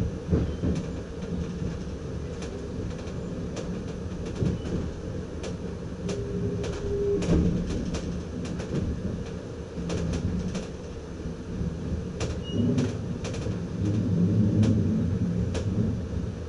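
Cab interior of a Dutch ICM intercity train rolling slowly over station points: a steady low rumble, broken by many sharp clicks and knocks as the wheels cross the rail joints and switches, with a brief squeal-like tone about halfway through.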